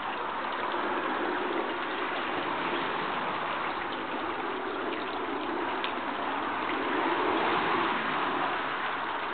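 Running water of a stream, a steady rushing and trickling that swells slightly near the end.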